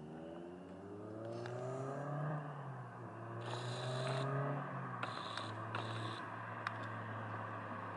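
8th-gen Honda Civic Si's four-cylinder engine through a K-Tuned 3-inch exhaust and PLM header, accelerating through the gears. The pitch rises for about two seconds, drops at a shift, rises again, then holds steadier as the sound grows louder.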